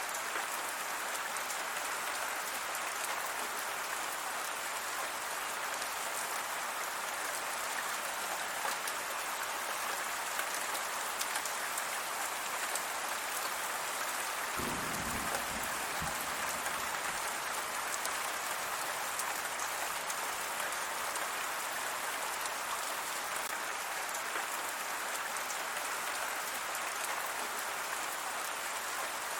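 Steady rain falling, an even hiss of drops on a surface, with a brief low rumble about halfway through.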